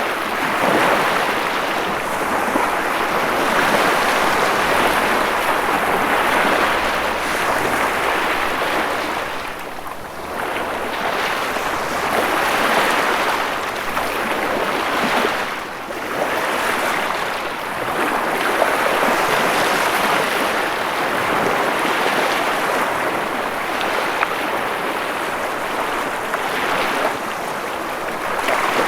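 Ocean waves breaking and washing ashore in a continuous surf, swelling and easing every few seconds.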